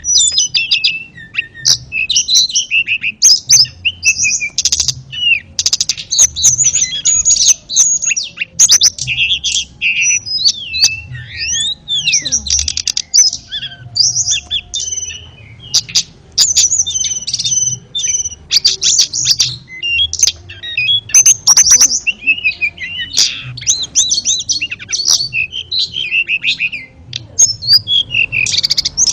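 Tledekan songbird singing: a fast, varied stream of high chirps, trills and clicking notes in long phrases broken by brief pauses.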